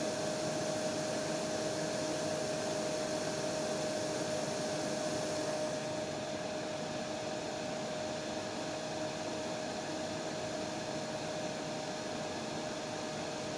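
Electric hair dryer running steadily: a constant airy rush with a steady hum in it. About halfway through, the highest part of the hiss drops away and it gets a little quieter.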